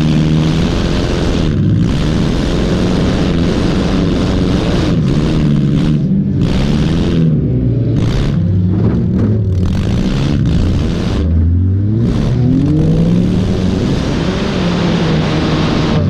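Junk race car's engine, fitted with headers, revving hard and repeatedly rising and falling in pitch as the throttle is worked on and off.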